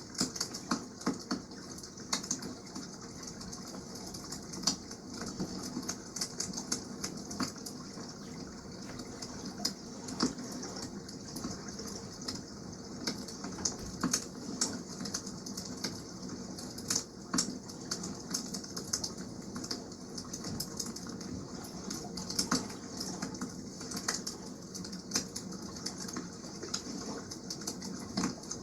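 Wood campfire crackling, with irregular sharp pops and snaps, over a steady rush of water.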